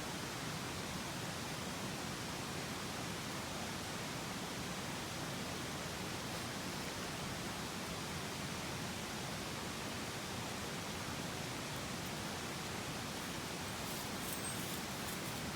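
Mountain stream water rushing steadily, an even hiss with no change, with a few faint ticks near the end.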